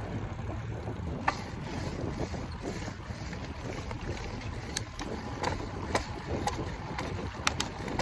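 Wind rumbling on the microphone of a camera riding on a moving e-bike, with a number of short sharp ticks, most of them in the second half.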